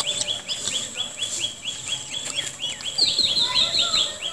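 Birdsong: a steady series of short, high chirps, about four a second, with a quick run of higher notes about three seconds in.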